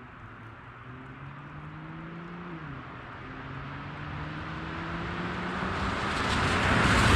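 A car approaching and accelerating past, its engine note rising, dropping once at a gear change, then rising again, growing steadily louder until it passes close at the end.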